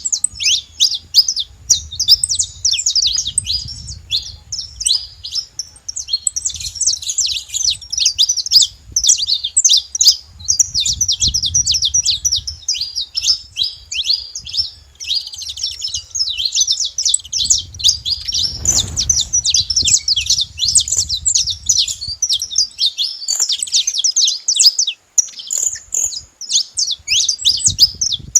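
A flock of saffron finches chirping together: a dense, continuous chatter of many short, high, overlapping calls.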